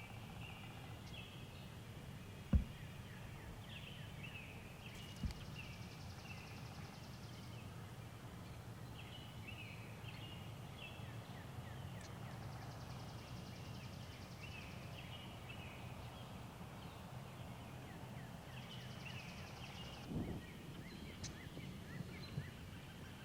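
Woodland birdsong ambience with a wild turkey gobbling, over a steady low rumble. Two sharp thumps come about two and a half and five seconds in.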